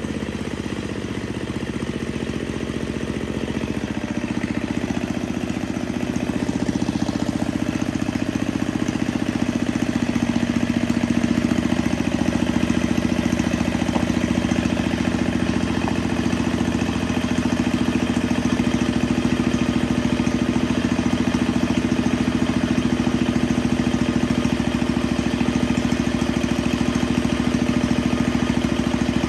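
Tecumseh 5 hp single-cylinder four-stroke snowblower engine running steadily at idle. It grows a little louder over the first several seconds, then holds an even note.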